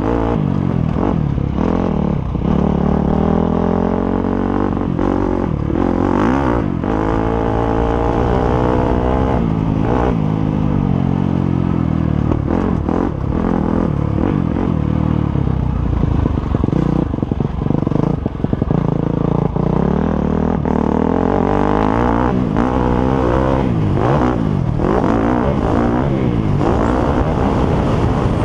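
Motocross bikes racing, their engines revving up and down again and again as they accelerate and shift through the gears, with more than one bike heard at once.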